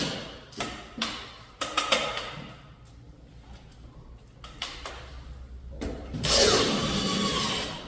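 A power screwdriver runs for about a second and a half near the end, driving a screw to fix a patch of plasterboard into the wall. Before it come a few knocks and clicks of the board and screws being handled.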